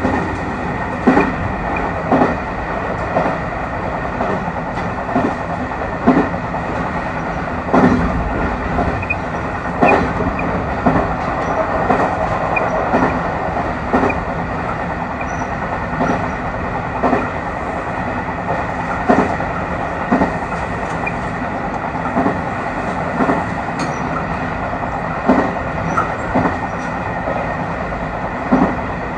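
JR Kyushu YC1 hybrid diesel railcar running along jointed track, heard from inside the car: a steady running rumble with a thin high whine, broken by sharp rail-joint clacks about every one to two seconds.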